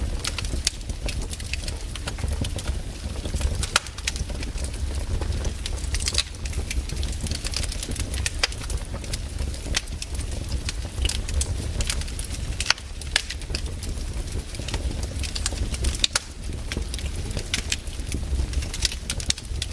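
Wood campfire crackling: frequent sharp irregular pops and snaps over a steady low rumble.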